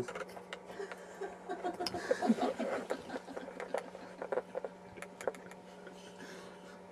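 Faint voices and soft laughter in a small room, with a few light clicks and taps over a steady low hum.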